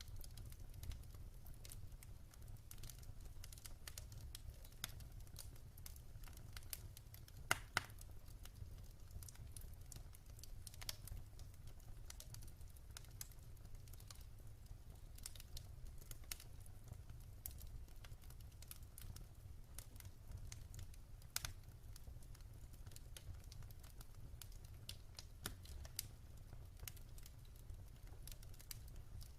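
Wood fire crackling in a fireplace: quiet, scattered pops and snaps at irregular intervals over a low steady hum, with a few sharper pops among them.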